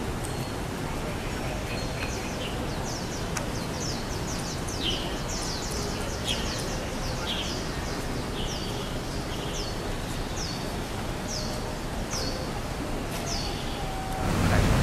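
A bird calling over and over with short, high chirps that sweep downward, close together at first and then about once a second, over steady outdoor background noise.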